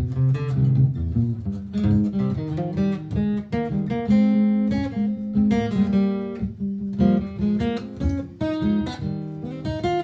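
Martin GPCPA4 acoustic guitar playing a mix of plucked notes and strums, with parts layered through a looper pedal.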